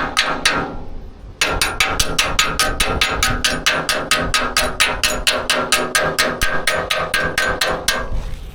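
A hammer striking steel in a fast, even rhythm of about five blows a second, the metal ringing with each hit. There is a brief pause under a second in, and the blows stop near the end.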